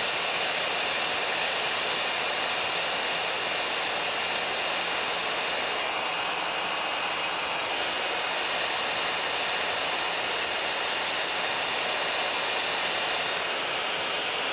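Mooney M20K's piston engine and propeller running steadily, heard inside the cockpit as an even drone, with a thin high whine over it.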